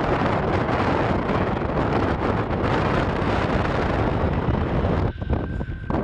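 Strong mountain wind buffeting the microphone, a dense steady rush. About five seconds in, it drops suddenly and thins out.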